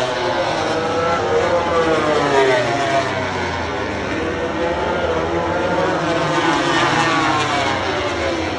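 Several racing motorcycles at high revs passing in a group, their overlapping engine notes repeatedly rising and falling in pitch.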